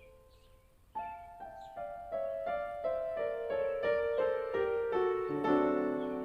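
Background piano music: a near pause, then a steady run of notes from about a second in, growing louder.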